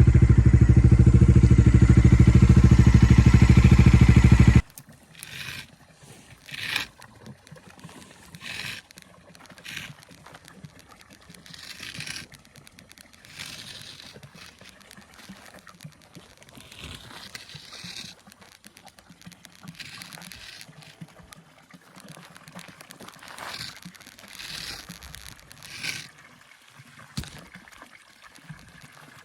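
Bajaj Dominar 250's single-cylinder engine idling steadily, then cutting off suddenly about four and a half seconds in. What follows is much quieter: faint trickling water with short scattered noises.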